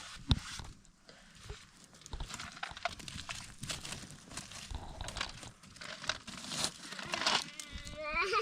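Rustling and crinkling handling noise with scattered clicks and knocks, and a short rising pitched cry near the end.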